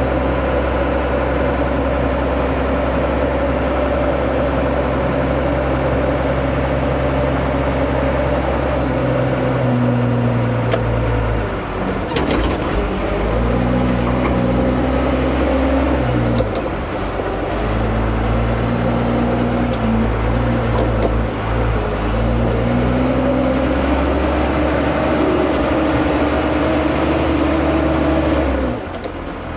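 Diesel engine of heavy earthmoving equipment running steadily, its pitch dipping and climbing again every few seconds from about a third of the way in as the machine works under changing load.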